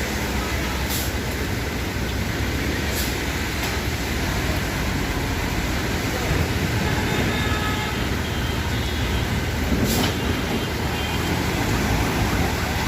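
Steady engine and road rumble of a bus, with three brief sharp clicks.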